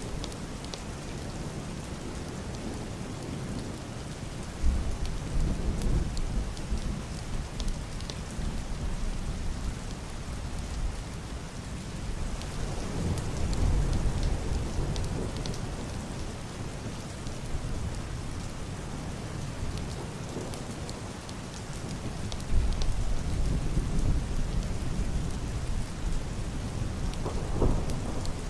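Heavy rain hitting a roof and glass window, with scattered drops ticking sharply, while deep, muffled thunder rolls in and fades three times.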